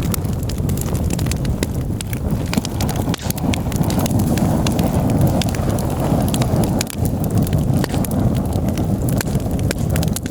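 Campfire burning: wood crackling and popping in sharp irregular snaps over a steady low rush.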